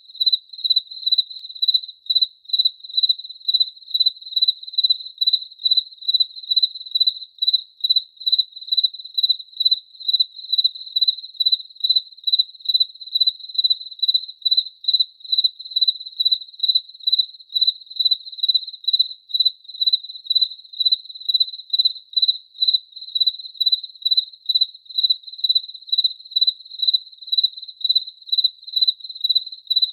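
Cricket chirping steadily: one high, thin tone repeated in an even rhythm of about two to three chirps a second.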